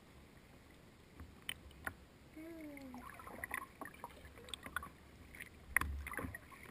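Kayak paddle strokes: water splashing and sloshing in irregular bursts with sharp knocks, the loudest splash near the end.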